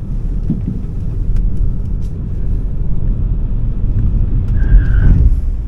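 Steady low road and tyre rumble in the cabin of a Smart #3 electric car being driven hard, swelling louder about four to five seconds in. A brief high tone sounds over it near the end.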